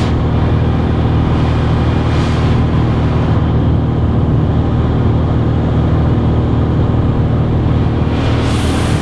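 Cessna 182 single piston engine and propeller running at a steady drone, with a dense low hum. Short rushes of hiss come right at the start and again near the end.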